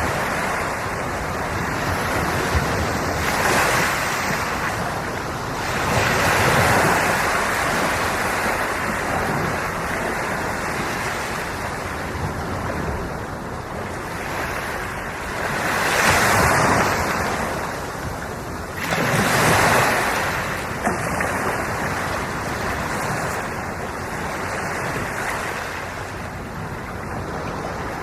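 Ocean waves washing onto the shore in a steady surf, rising in several swells as waves break, with some wind on the microphone.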